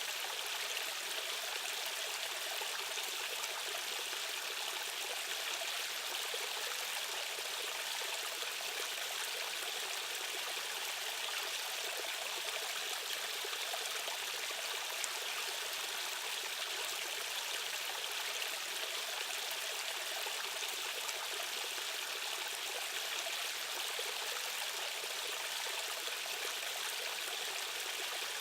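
Steady rushing of a stream's current, an even splashing hiss with no deep rumble.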